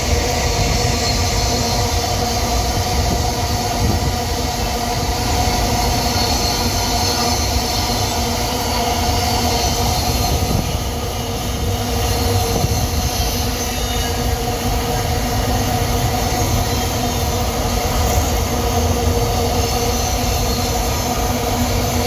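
Long string of empty iron-ore hopper wagons rolling steadily past on the rail, a loud continuous rumble with steady wheel squeal tones over it.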